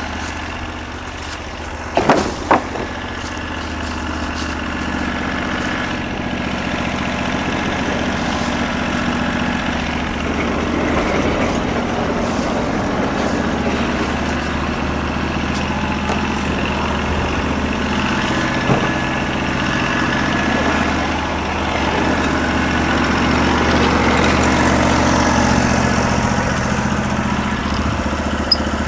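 Norwood LumberMate LM29 portable band sawmill running steadily on its 16 hp engine, the band blade cutting through a log. Two sharp knocks about two seconds in.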